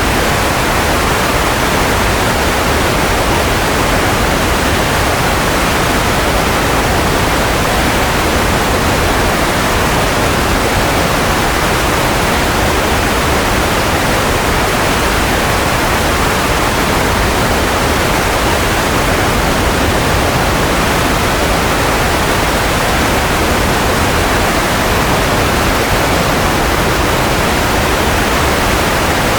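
Steady white noise, an even, unbroken hiss with no tone or rhythm in it, fullest in the middle range. It is played as a sleep aid for babies.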